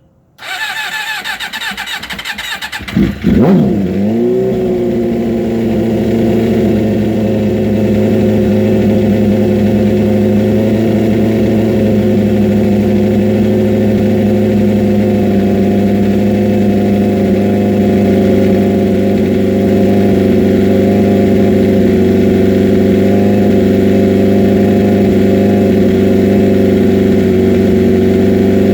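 2006 Suzuki GSX-R750's fuel-injected inline-four cold-starting. The electric starter whines for about two and a half seconds, then the engine catches with a brief rev about three seconds in and settles into steady running.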